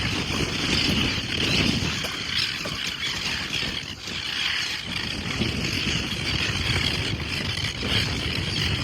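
Wind buffeting the microphone outdoors on a beach: an uneven low rumble that swells and fades, over a steady hiss.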